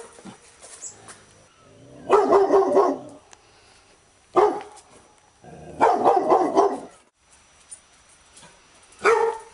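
Labrador retriever barking: two runs of quick barks, each lasting about a second, alternating with single sharp barks.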